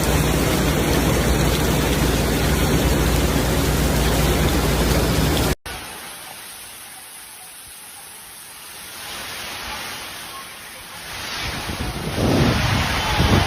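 Heavy rain pouring down: a loud, steady hiss. About five and a half seconds in it cuts off abruptly to much quieter rain, which grows louder again near the end.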